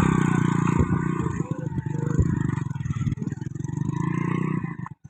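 Tractor engine running steadily, with scattered clatters and scraping knocks over it; the sound cuts off abruptly near the end.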